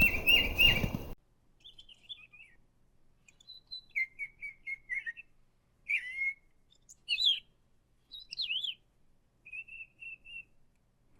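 Pet parrot chirping: short high chirps and trills in separate phrases, a second or so apart. A loud rush of noise lies under the chirps in the first second, then the background goes quiet.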